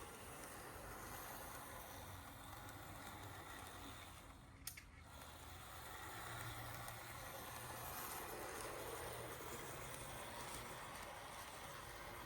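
Z-scale model locomotive running on its track under test: a faint, steady whir of the tiny motor and wheels, growing a little louder for a few seconds past the middle. A single sharp click just under five seconds in.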